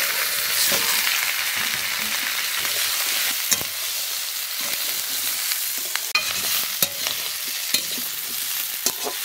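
Potato chunks and pumpkin leaves sizzling as they fry in a metal kadai, stirred with a steel spatula that scrapes and clicks against the pan every so often over a steady hiss.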